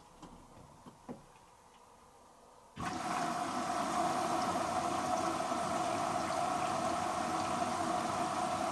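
A few faint clicks, then about three seconds in the washer dryer's water inlet valve opens and water rushes in steadily as the machine fills for its pre-wash.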